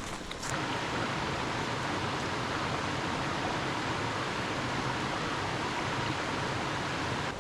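Steady rushing of a mountain creek's water tumbling over rocks, getting a little louder about half a second in and then holding even.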